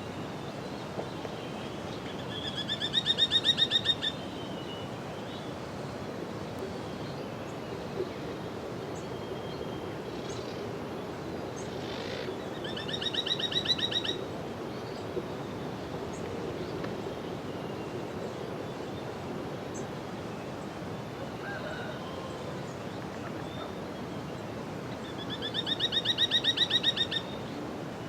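Bar-bellied woodpecker giving a rapid rattling trill three times, each about a second and a half long and roughly ten seconds apart, over a steady background hiss.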